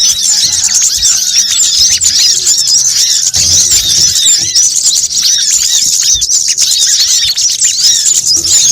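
Dense, unbroken chorus of high-pitched chirps and short rapid trills from many small birds, a bird-lure recording meant to attract sunbirds and similar small songbirds.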